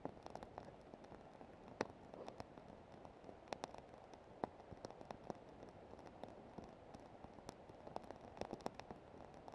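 Wood campfire crackling faintly, with irregular sharp pops scattered through it, the loudest about two seconds in and again near four and a half seconds.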